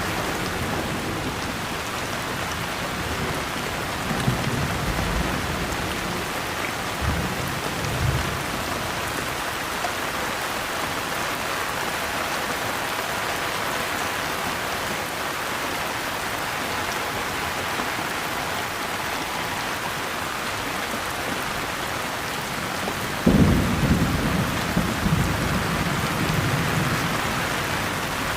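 Steady rain falling in a thunderstorm. Thunder rumbles faintly about four and seven seconds in, then a sharp clap about 23 seconds in rolls on for several seconds.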